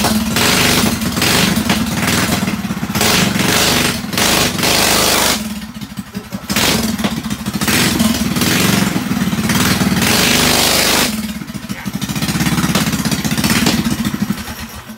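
Drag racing mini bike's small engine running just after a cold start on choke, revved up and held three times with two short dips back toward idle between them. The engine stops right at the end.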